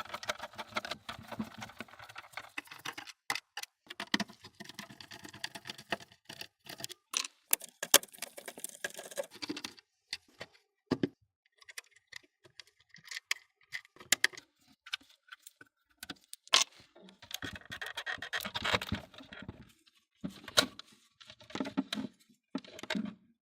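Hand work on small parts: irregular clicks, taps and light metallic rattles, with a few longer stretches of scraping or rubbing.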